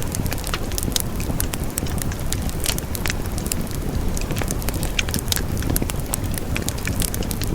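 Wood fire burning with frequent sharp crackles and pops over a steady low rumble of the flames.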